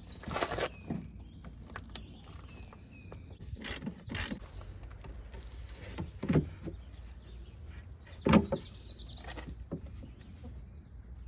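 Scattered knocks and clicks of hand tools and metal or plastic parts being handled during work on a car, with a few short squeaky chirps; the loudest knock comes about eight seconds in.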